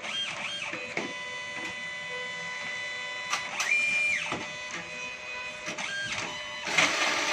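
Electric coconut grating machine running: a steady motor whine with short glides up and down in pitch, turning louder and noisier near the end.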